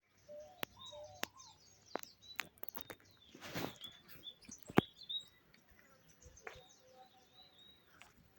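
Several songbirds chirping in short high calls and brief gliding notes, mixed with a few sharp clicks, the loudest about five seconds in, and a short rustling rush of noise near the middle.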